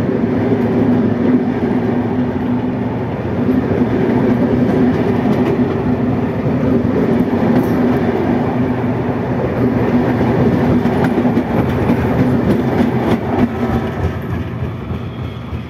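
Russian-built passenger coaches rolling past close by, wheels clattering over the rail joints over a steady rumbling hum. The sound eases near the end as the last coach goes by.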